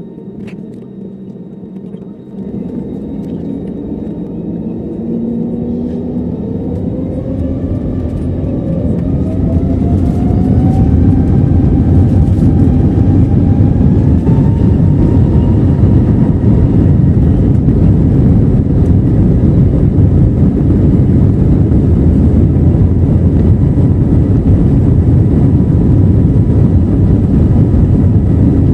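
Airbus A321neo's CFM LEAP-1A turbofan engines spooling up to takeoff thrust, heard inside the cabin: a whine rises in pitch over several seconds as the noise swells, then a loud, steady roar of the takeoff roll.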